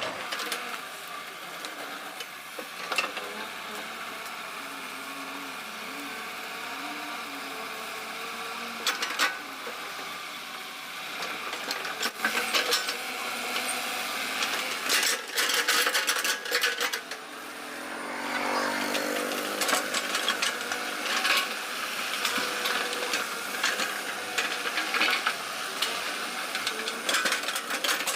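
Excavator working: its engine runs steadily under scattered sharp knocks and clanks, and the engine pitch rises about eighteen seconds in.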